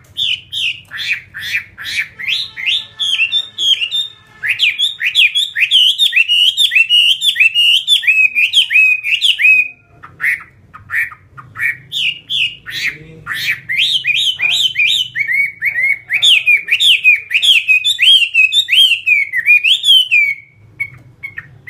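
Chinese hwamei singing: loud, fast strings of repeated whistled notes and sweeping phrases, with a short break about ten seconds in.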